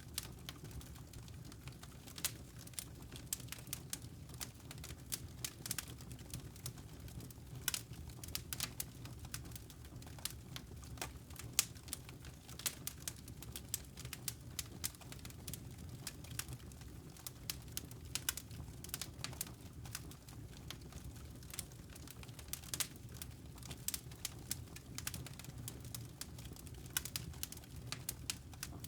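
Wood fire crackling in a fireplace, with many sharp, irregular pops and snaps over a steady low rumble.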